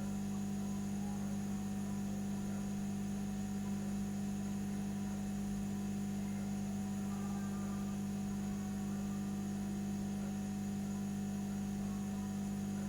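Steady electrical hum: one low, unchanging tone with fainter overtones, and nothing else.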